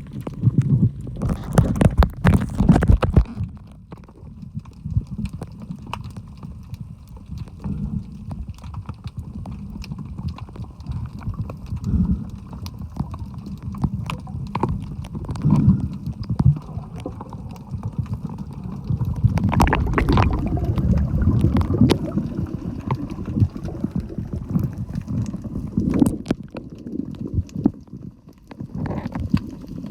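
Muffled low rumble of water moving and gurgling around a phone filming underwater, rising and falling in irregular swells with occasional knocks.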